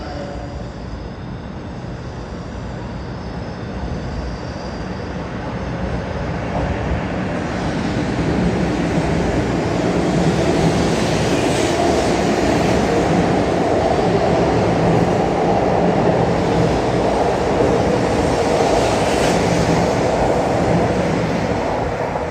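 500 Series Shinkansen train pulling out of the station and passing close by: the running noise of its motors and wheels builds over the first several seconds, stays loud, then begins to fade near the end as the last car goes by.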